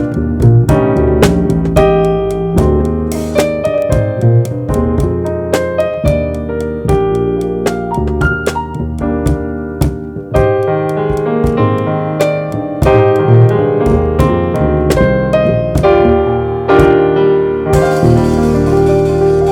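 Jazz trio playing, with the keyboard carrying chords and melody over bass notes; a cymbal wash comes in near the end.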